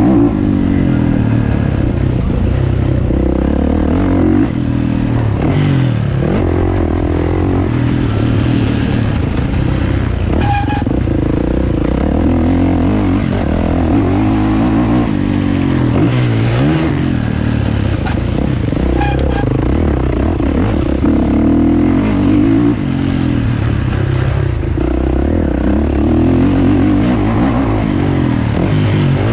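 450cc motocross bike engine revving hard and easing off again and again, its pitch rising and falling every second or two, as it is ridden around a track.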